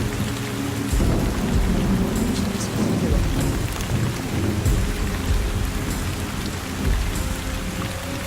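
Steady rain-like hiss with uneven deep rumbling, over faint steady held tones.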